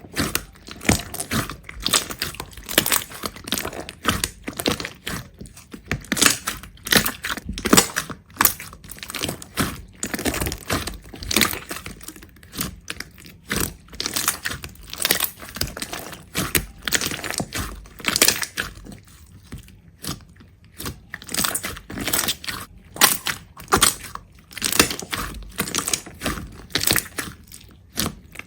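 Dense, irregular crisp crunching and crackling, many sharp clicks a second with brief lulls, as something brittle is pressed, crushed or cut.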